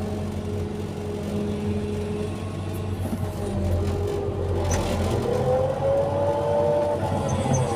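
Excavator's diesel engine running steadily under work, with a higher whine from the hydraulics that rises about five seconds in and falls away near the end.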